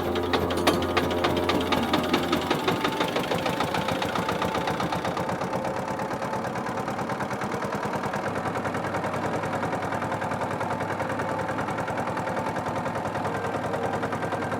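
A small engine running with a rapid, even knocking beat, louder in the first few seconds and then steady.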